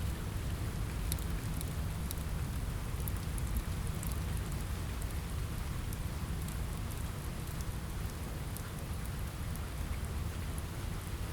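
Steady rain on a window: an even hiss over a low rumble, with scattered light ticks of drops.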